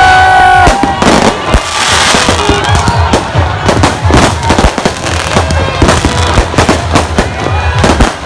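Fireworks going off in many quick, irregular bangs and cracks over loud party music with a steady bass beat.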